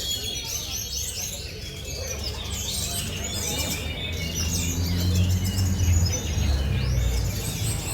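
Many caged songbirds singing at once, a dense tangle of fast chirps, trills and whistled phrases, the kind of chorus heard at a songbird contest where a brown-chested jungle flycatcher is being judged. A low rumble underneath grows louder from about halfway.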